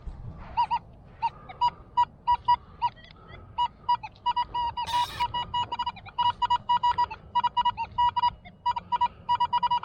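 Metal detector sounding short beeps at one pitch, scattered at first and then in quick runs through the second half, as it signals a buried metal target. About five seconds in, a brief scratchy hiss sounds over the beeps.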